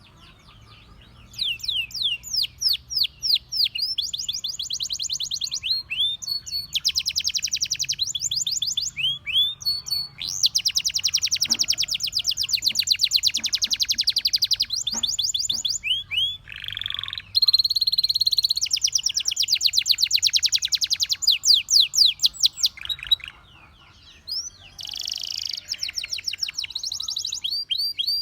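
Domestic canary singing: phrases of rapidly repeated high notes, some as fast trills and others as slower downward-sweeping whistles, broken by short pauses.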